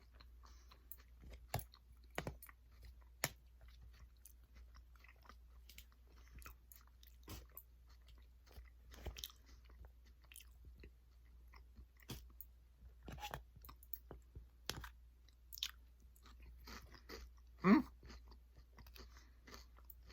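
Close-up chewing and crunching of food in the mouth, with scattered short crunches and mouth clicks, over a low steady hum. Near the end comes one brief louder vocal sound.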